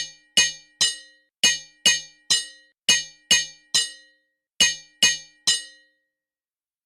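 Hammer striking metal on an anvil as a sound effect: twelve sharp, ringing clinks in four quick sets of three.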